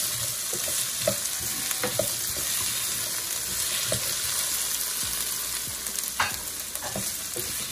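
Diced carrots, potatoes, garlic and scotch bonnet pepper sizzling in olive oil in a frying pan. A steady hiss, with now and then a short click or scrape of a utensil against the pan as they are stirred.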